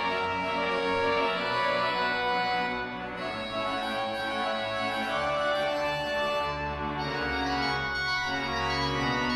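Large pipe organ playing sustained chords, with deep pedal bass notes entering about halfway through.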